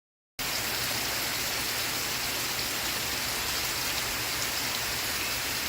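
Steady rain, a dense even hiss with a few faint drop ticks, cutting in abruptly from dead silence just under half a second in.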